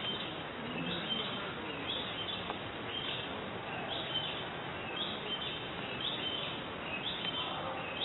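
A bird chirping over and over, a short high call about once a second, over a steady background hiss.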